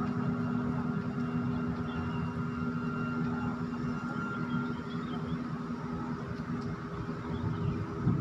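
Heavy machinery running steadily with a constant low hum and a fainter high whine, with a short knock near the end.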